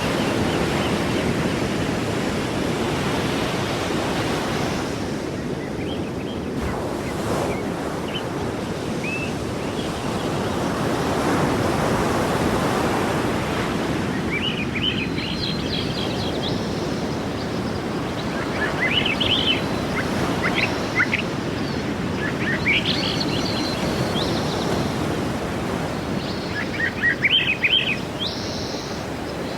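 Sea waves washing onto the shore, a steady rushing that swells and eases. Small birds chirp in short quick calls over the surf from about halfway through.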